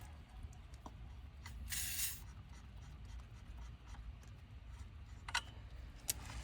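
Light clicks and rubbing from a refrigerant gauge hose being unscrewed by hand, with a short hiss about two seconds in. No pump is running.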